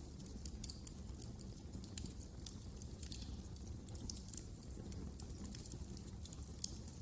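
Wood fire crackling in a fireplace: frequent small, irregular pops and snaps over a low, steady rumble of the flames.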